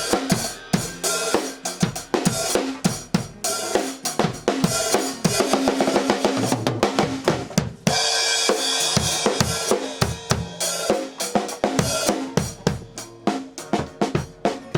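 Drum kit being played: rapid kick and snare hits with cymbals, and a burst of cymbal wash about eight seconds in.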